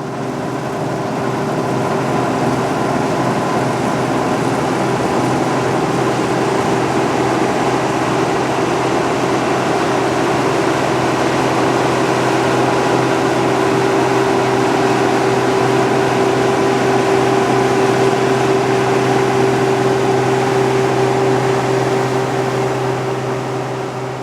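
Claas Dominator 68 combine harvester at work cutting wheat: a steady drone of engine and threshing machinery with a constant whine. It swells up over the first couple of seconds and fades away near the end.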